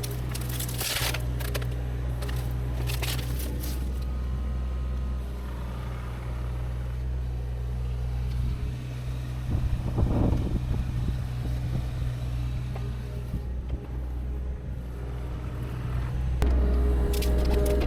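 Engine of a heavy machine running steadily with a deep hum, probably the excavator clearing the land. A few brief noisy bursts come in near the start, about ten seconds in, and near the end.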